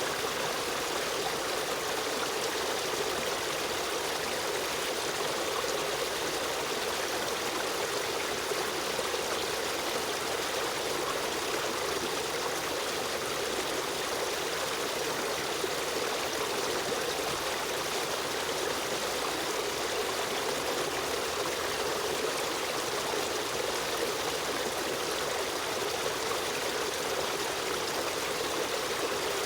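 A shallow river stream running steadily, an even rushing and trickling of water over rocks.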